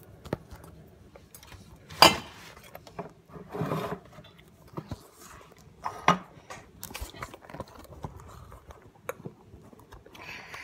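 Kitchen clatter: irregular knocks and clinks of utensils and dishes on a counter, with a short rustle of handling.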